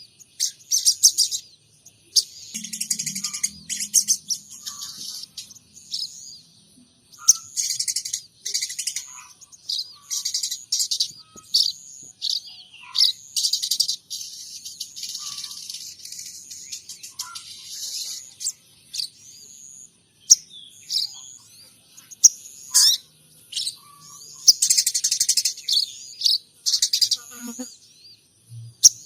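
Sogon trotol songbird singing in repeated bursts of rapid, high chirps and trills with short pauses between them, its song holding phrases copied from munias and house sparrows.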